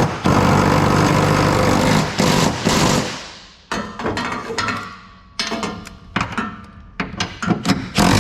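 Impact wrench driving a suspension bolt: one long rattling run of about three seconds, then several short bursts on the trigger.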